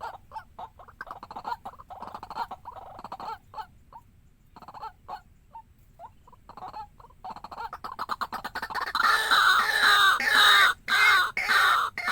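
A waterhen calling: a run of short clucking notes, then about nine seconds in a much louder, continuous harsh calling.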